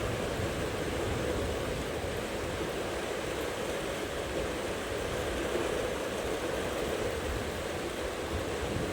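Steady rain falling in a thunderstorm, with a low rumble of thunder dying away over the first couple of seconds.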